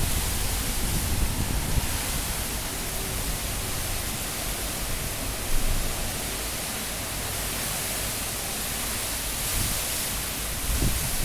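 Steady rush of high cyclone wind, with a brief louder gust about halfway through and another near the end.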